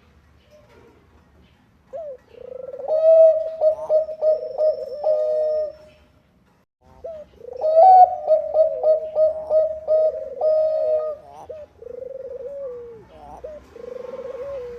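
Zebra dove (Thai-bred perkutut bangkok) singing: two phrases of quick, clipped cooing notes with a short pause between them, followed by softer coos near the end.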